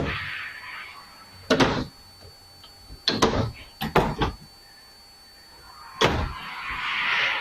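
RV kitchen cabinet doors being opened and shut, a series of short clunks and knocks, with a softer rustling swell near the start and again near the end.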